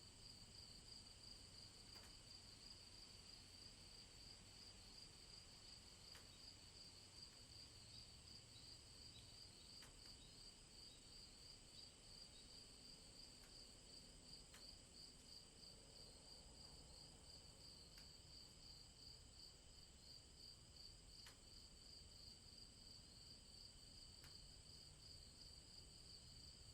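Faint, steady chorus of crickets chirping in rapid pulses, with a few faint ticks.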